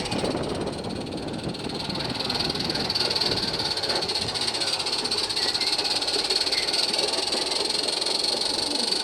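Small 16mm-scale live-steam garden railway locomotive running, giving a steady hiss of steam.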